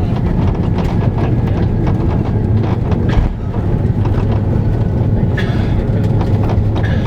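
Airliner cabin noise during landing: a loud, steady low rumble with continual rattling and clattering of the cabin fittings, and a single thump about three seconds in.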